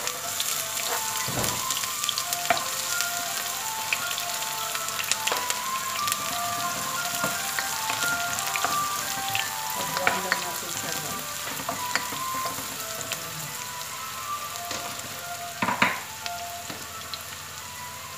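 Diced onion sizzling and crackling as it fries in hot oil in a pot, with a wooden spatula stirring it; one louder knock near the end.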